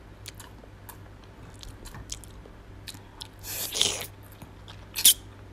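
Close-miked eating sounds: soft chewing and wet mouth clicks while eating BBQ chicken wing with rice. A longer sucking sound comes about three and a half seconds in as a finger is licked, and a sharp lip smack about five seconds in, over a steady low hum.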